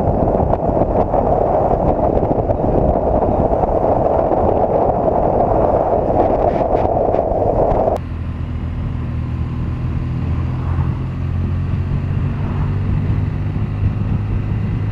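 Loud, steady rush of wind on the microphone of a moving motorcycle, cutting off abruptly about eight seconds in. Then the BMW R 1200 GS's boxer twin engine runs steadily at cruising speed, with wind and road noise.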